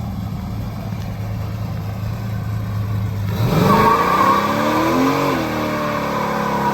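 A car engine running steadily, then revving up about three and a half seconds in, growing louder with its pitch rising and falling.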